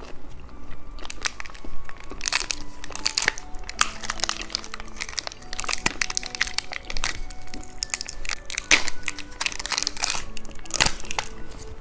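Hard candy crackling and crunching as it is bitten and chewed close to the microphone, in many quick irregular crackles, over background music.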